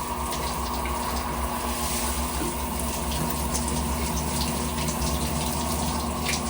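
Warm tap water running steadily and splashing as it rinses a military macaw's tail feathers.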